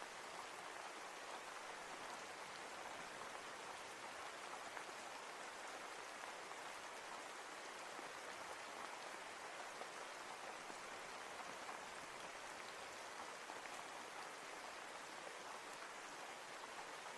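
Steady rain falling, an even hiss of drops on surfaces with faint scattered patters.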